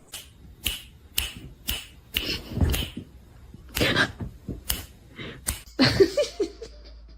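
A run of sharp clicks or snaps, about two a second and somewhat uneven, with a brief pitched sound near the end.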